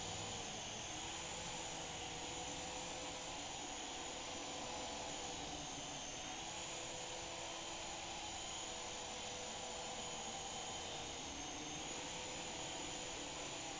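Syma S107G micro RC helicopter in flight: its small electric motors and coaxial rotors whirring steadily, with a high whine that wavers slightly in pitch now and then.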